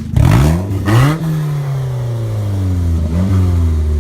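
Mazda Miata engine running through an unbolted, open exhaust, revved sharply twice in quick succession, then its pitch sliding gradually back down, with a short blip a little after three seconds in. Described as sounding like a race car.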